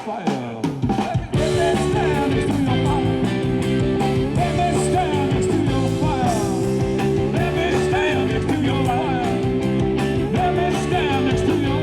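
Rock band playing live, with electric guitar chords held over a steady drum beat.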